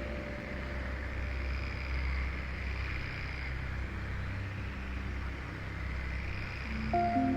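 Rainforest nature ambience: a steady rushing noise with faint insect chirring. A soft music chord comes in near the end.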